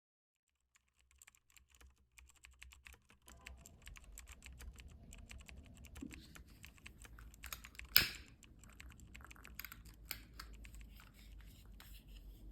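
Rapid, irregular light clicking and tapping, like typing on a keyboard, with one sharper, louder knock about eight seconds in.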